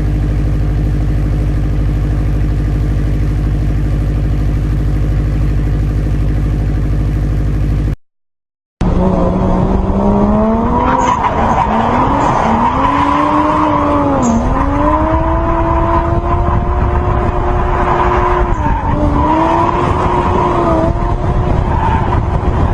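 A car engine running at a steady idle with a deep, even rumble. After a cut and about a second of silence, a second car's engine revs up and down over and over, its pitch rising and dipping, along with tyre squeal.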